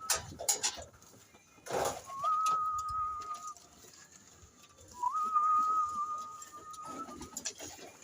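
Two long, steady whistles at one pitch, each lasting about a second and a half, the first about two seconds in and the second about five seconds in, with scattered light clicks and knocks between them.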